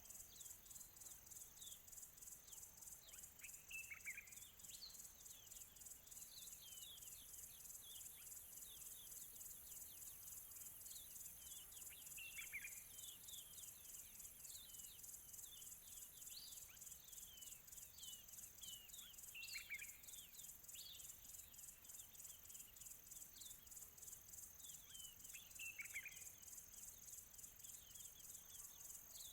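Faint dawn-chorus-style nature ambience: a continuous high, rapidly pulsing insect trill, with many short bird chirps over it and a louder falling bird call about every seven seconds.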